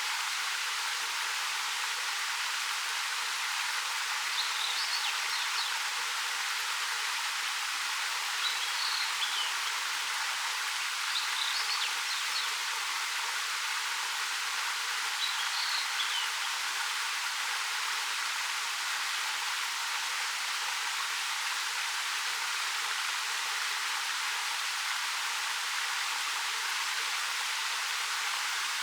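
Ariake Falls, a 13 m waterfall over black rock, rushing steadily. A small bird chirps briefly four times over the first half.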